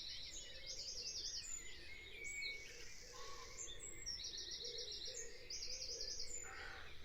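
Faint birds chirping: a few short trills of quick repeated high notes over a low steady background hiss.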